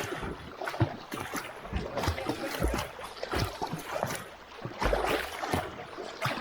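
Irregular splashing of swimming strokes in river water, with a few low buffeting thumps on the microphone.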